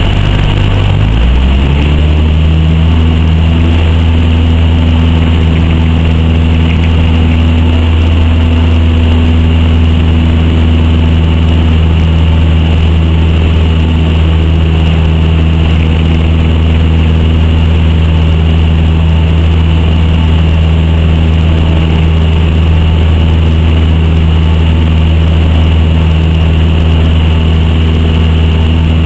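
Cessna 152's four-cylinder Lycoming engine and propeller running loud and steady. About a second in, the engine note rises as power comes up, then holds level.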